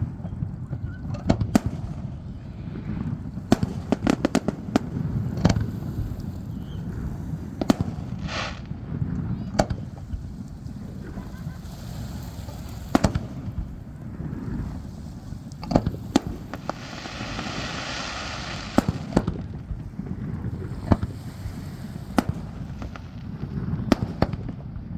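Fireworks display: aerial shells bursting with sharp booms at irregular intervals, one to several every couple of seconds. About two-thirds of the way through there is a stretch of several seconds of hissing noise among the bangs.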